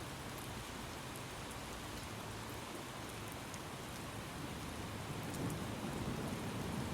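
Steady rain with scattered sharp drop ticks, and a low rumble of thunder swelling in from about five seconds in.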